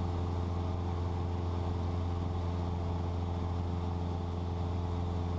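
Cessna 172's piston engine and propeller droning steadily in cruise, heard inside the cabin as a strong low hum with several steady higher tones over it.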